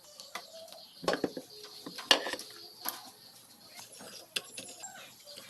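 Scattered clicks and knocks of tools and engine parts being handled, the loudest about two seconds in.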